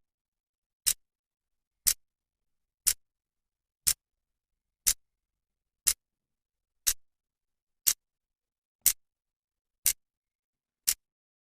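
Clock's second hand ticking once a second: a dozen sharp, even clicks with silence between them.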